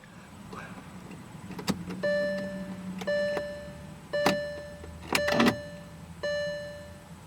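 Volkswagen Phaeton's dashboard warning chime dinging about once a second, each ding ringing and fading, with a few clicks and a brief low hum as the ignition is tried. The engine does not start.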